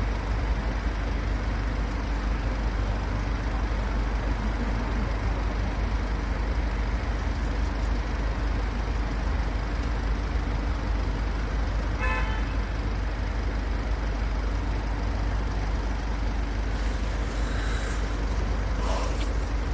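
Steady road-traffic noise with a deep rumble, and a brief horn toot about twelve seconds in. A few short knocks come near the end.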